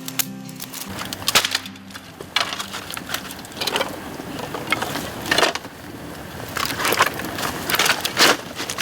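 Bamboo fire burning in a pail can, crackling with irregular sharp snaps and pops among a steady rush of flame.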